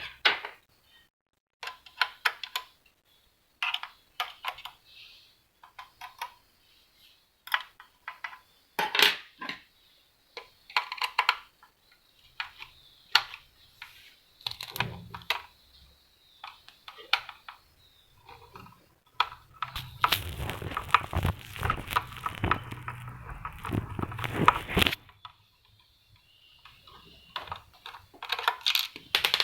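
Plastic and metal parts of a Gprinter GP-C80250 Plus receipt printer clicking and knocking as it is taken apart by hand. About two-thirds of the way through there is a longer stretch of continuous scraping and rattling.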